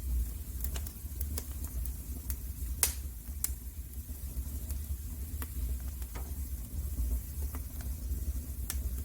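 Fire crackling in a fireplace: scattered sharp pops over a steady low rumble, the loudest pop a little under three seconds in.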